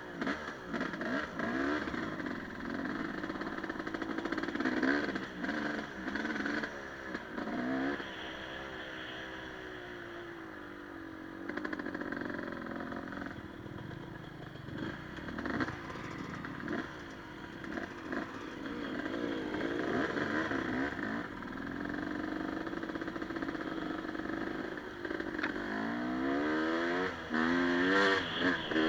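Enduro motorcycle engine revving up and down repeatedly while riding, its pitch rising and falling many times, with scattered knocks and clatter. The fastest, loudest revving comes near the end.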